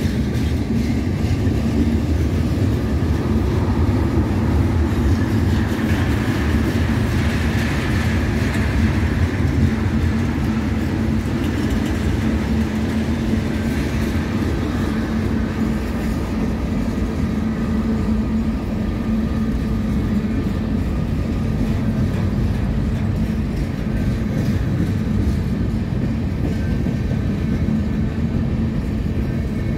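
CSX mixed manifest freight train's cars rolling very slowly past on the rails: a steady, continuous sound of wheels and cars, mostly low-pitched.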